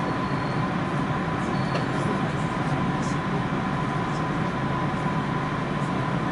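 Kintetsu electric train running, heard from inside the passenger car: a steady rumble and rolling noise with a thin, steady high tone over it, the train going at reduced speed.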